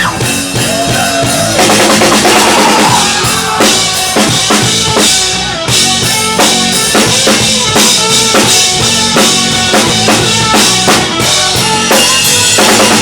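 Live rock band playing loud, with the drum kit driving a steady beat of kick and snare hits.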